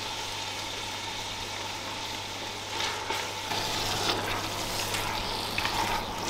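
Minced lamb and chopped tomatoes sizzling in a cast-iron pot, with a spoon stirring and scraping through the mince from about three seconds in.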